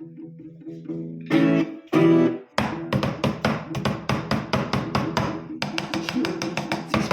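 Guitar music: soft plucked notes, then two loud ringing chords a little over a second in, then fast rhythmic strumming from about two and a half seconds in.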